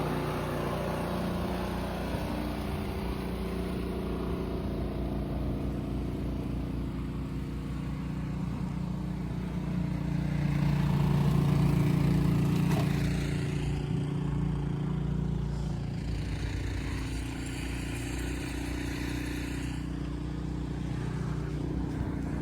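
A steady engine drone that swells a little about ten seconds in, then settles back.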